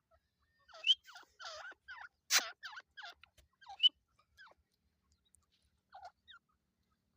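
Teetar partridges calling: a quick run of short, sharp calls and chattering notes, with three loud calls in the first four seconds, then only a few scattered calls.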